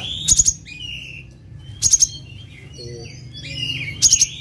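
Kolibri ninja sunbird singing: three loud, sharp bursts of a few very rapid high notes, about two seconds apart, with shorter twittering chirps between them.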